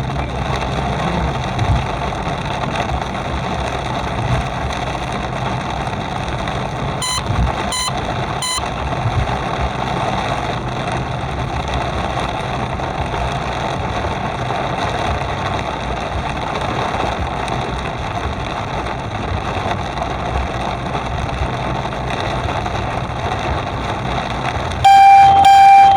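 Steady running noise of a car driving on a wet road in rain, with a low engine hum. About seven seconds in come three short, evenly spaced beeps. Near the end a loud held beep sets in suddenly.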